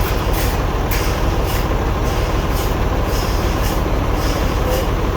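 Sawmill machinery running steadily with a heavy engine drone, overlaid by repeated hissing pulses about once or twice a second.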